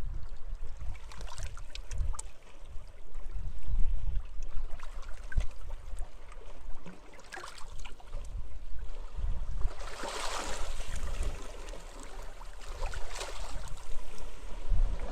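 Small sea waves washing onto the shore, with a louder splashing wash about ten seconds in and another around thirteen seconds, over gusts of wind on the microphone.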